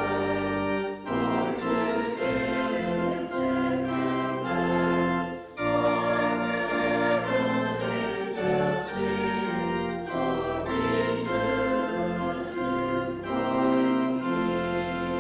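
Organ playing sustained chords that change every second or so, with brief breaks about one second and five and a half seconds in.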